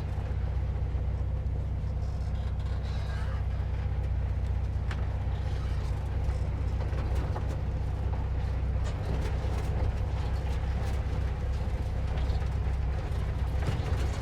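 Air-cooled flat-four engine of a 1950s VW Bus running at a steady speed while driving, with scattered short knocks and rattles.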